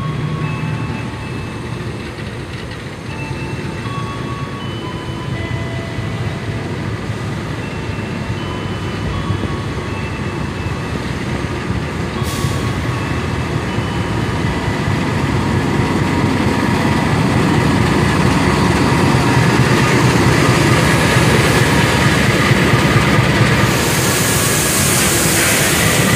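A passenger train hauled by a CC 206 diesel-electric locomotive running into the station. The engine hums, and the wheels rumble on the rails, growing louder as the locomotive and coaches come past. A high hiss joins in near the end.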